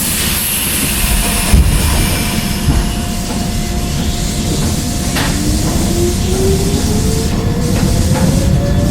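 Hokuso 7260 series electric train pulling away: a burst of air hiss at the start, typical of the brakes releasing, a thump, then the traction motor whine rising steadily in pitch as the resistance-controlled train accelerates, over the running rumble of the wheels.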